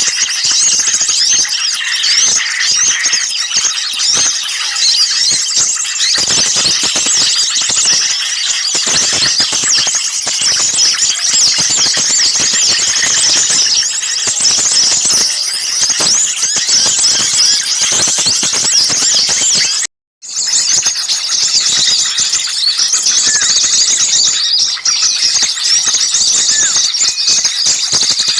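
Dense, noisy chorus of many small birds chirping and twittering over one another at high pitch: a bird-lure recording of agitated small birds. The sound cuts out completely for a moment about two-thirds of the way through, then resumes.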